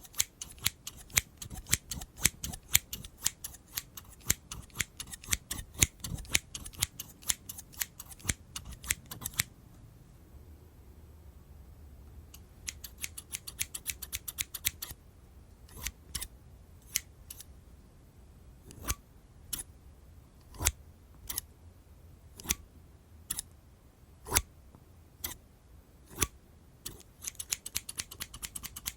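Scissors snipping closely, each cut a sharp crisp snip. Rapid snipping, about four cuts a second, runs for roughly nine seconds, stops for a few seconds, then picks up again slowly, about one snip a second, and quickens near the end.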